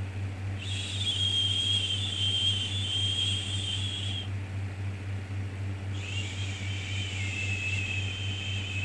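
Drawn-out "shhh" shushing sounds for soothing a baby: one lasts about three and a half seconds, and a second starts after a short pause and runs on. A steady low hum plays under them throughout.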